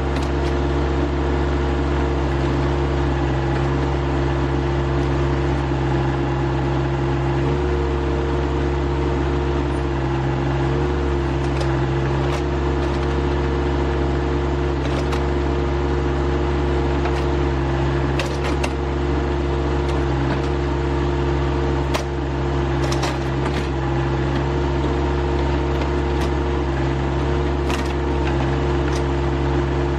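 Rural King RK25 sub-compact tractor's diesel engine running steadily at a constant speed, with a few brief knocks and clicks over it.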